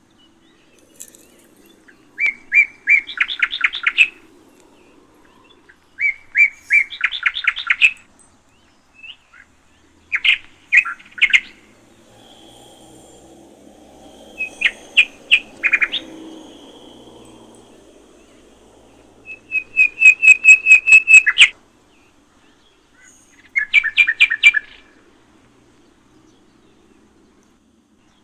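Small songbird singing: six short phrases of rapid, sharp, repeated chirps every few seconds. The phrase near the middle-to-late part of the stretch is the loudest.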